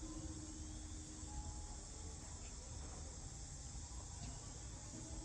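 Steady insect chorus, a continuous high-pitched chirring with no breaks, over a low rumble.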